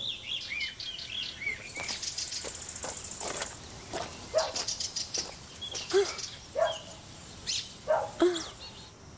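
Songbirds chirping in outdoor ambience: short rising-and-falling calls, with a quick high trill about two to three seconds in.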